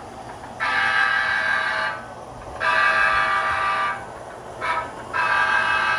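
Locomotive horn sounding the grade-crossing signal: two long blasts, a short one, then a long one, over the steady rumble of the train running.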